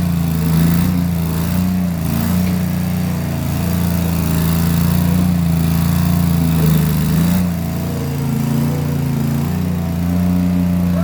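Case 1816 skid steer's engine running steadily, its pitch wavering slightly as the machine works, with a small shift in the engine note about seven seconds in.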